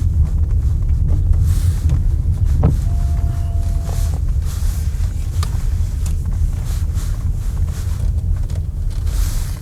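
Car moving slowly, heard from inside the cabin: a steady low rumble of engine and tyres.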